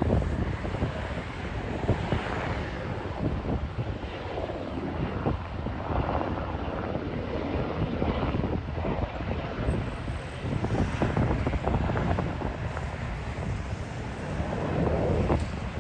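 UH-60 Black Hawk helicopter's rotor and twin turbine engines running as it departs, a steady rumbling noise, with wind buffeting the microphone.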